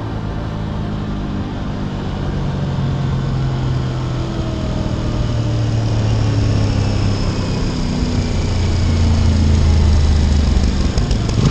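Aprilia RS 660's parallel-twin engine running at a steady cruise, its note dropping a little past halfway, with a steady rush of wind and road noise.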